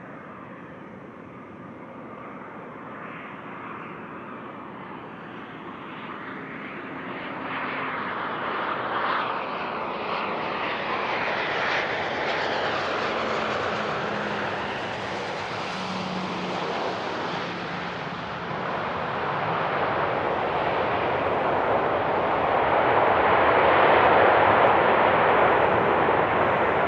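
Business jet's engines: a broad roar that grows steadily louder as the jet comes closer, loudest about 24 seconds in.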